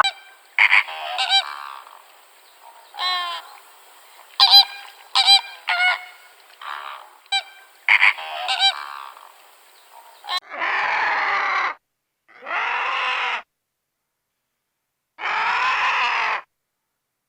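Animal calls, most likely bird calls: a quick run of short, sharp pitched calls for about ten seconds, then after a sudden cut three longer calls of about a second each with silent gaps between them.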